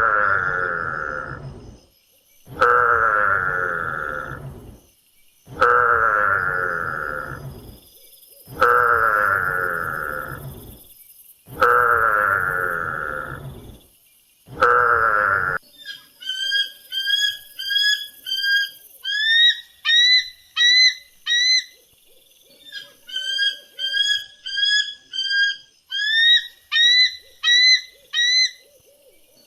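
Animal calls: a long, loud call repeated about every three seconds, then from about halfway a different call pattern of short, high, rising calls, several a second, in runs with brief pauses.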